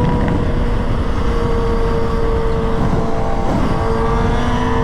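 A vehicle engine held at high, steady revs, its pitch creeping up slightly partway through, over heavy low rumble from wind and road.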